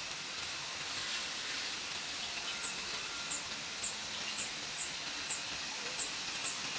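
Steady outdoor ambient hiss with a short, high chirp repeating about twice a second from partway in, with no tool or workshop noise standing out.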